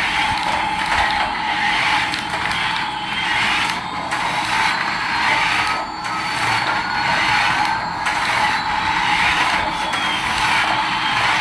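A remote-control toy's small electric motor and plastic gears running with a steady whirr, rising and falling in level every couple of seconds.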